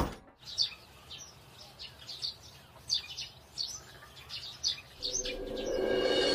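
Small birds chirping: a string of short, high, falling chirps every half second or so. A single sharp hit comes right at the start, and a steady layered sound, like background music, swells in about five seconds in.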